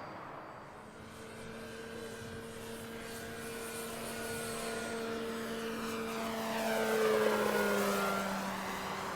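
Electric RC warbird's brushless motor and 15x10 propeller droning in flight, a steady whine that grows louder as the plane approaches, peaks about seven seconds in and drops slightly in pitch as it passes by.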